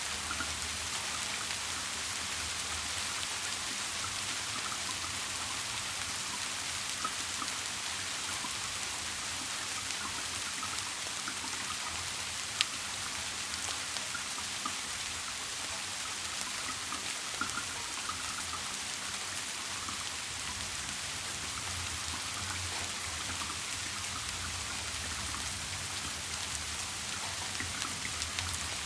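Steady rain falling, an even dense hiss of drops, with one sharp click about halfway through.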